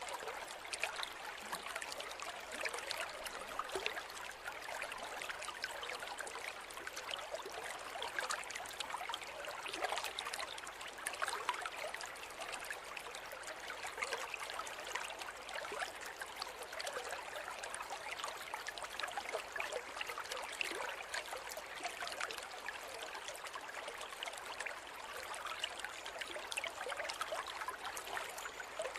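Small forest river or stream flowing steadily over stones, a continuous babble with many small trickles and splashes.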